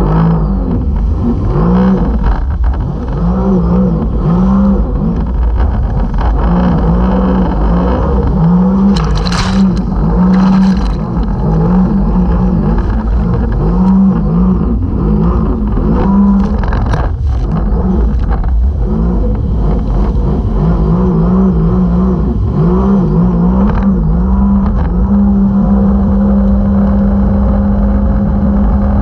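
Jet ski engine running under way, its pitch repeatedly stepping up and down as the throttle is worked, then held steady for the last few seconds, over a heavy low rumble.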